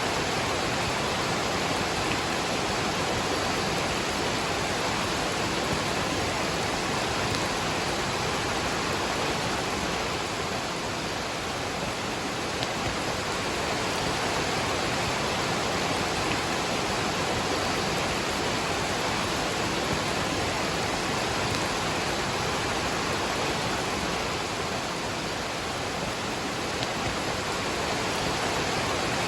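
Waterfall and rain: falling water rushing in a steady, unbroken hiss.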